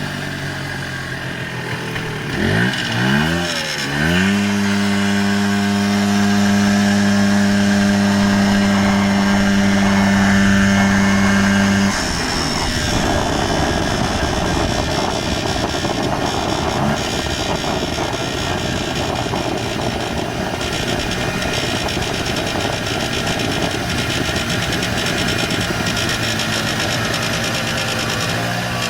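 1994 Polaris Xplorer 300's single-cylinder two-stroke engine revved up and down twice, then held at a steady speed with a strong, even buzzing tone. About twelve seconds in the buzz stops and the engine drops back to a rougher, lower running. The buzz comes at certain engine speeds and on deceleration since a top-end rebuild, with no rubbing or vibrating part found.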